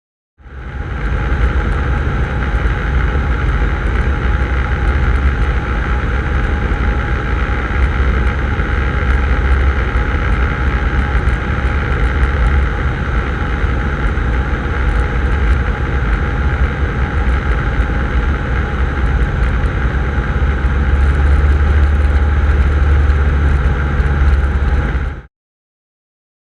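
Cessna 150's four-cylinder Continental O-200 engine and propeller running steadily under power on final approach, a constant drone with a heavy low rumble that grows a little louder near the end. It starts and cuts off abruptly.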